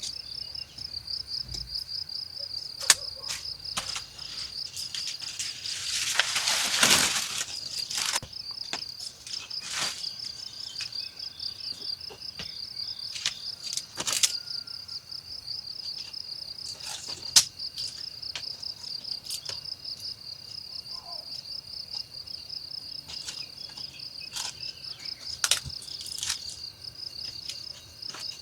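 Insects chirring steadily in a fast, high-pitched pulsing trill, like crickets, with scattered sharp clicks and a brief rushing swell about seven seconds in.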